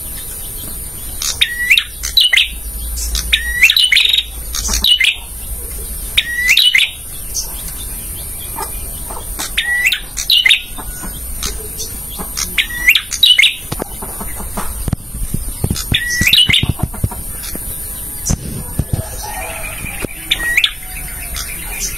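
Male bar-winged prinia (prenjak) calling over and over: short, sharp, loud chirps every second or two, with a steady high-pitched buzz underneath.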